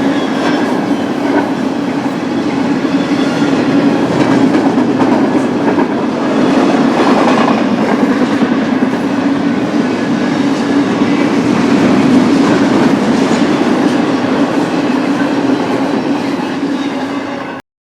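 BNSF double-stack intermodal freight train rolling past, a steady rumble of wheels on the rails with light clickety-clack. It cuts off abruptly near the end.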